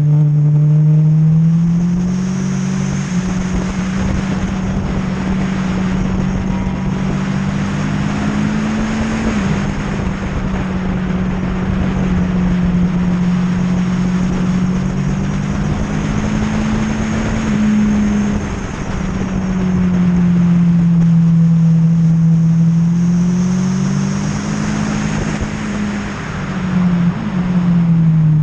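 Sports motorcycle engine at speed on a race track, heard from on board: the engine note rises and falls through the corners, with a few sudden drops in pitch, over heavy wind noise on the microphone.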